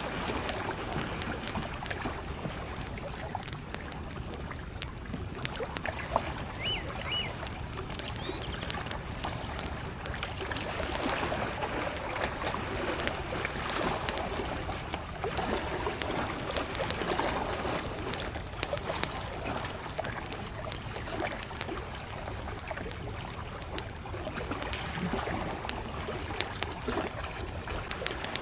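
Small waves lapping at a lakeshore under the steady crackle and sharp pops of a wood campfire. A bird chirps a few short notes between about six and eleven seconds in.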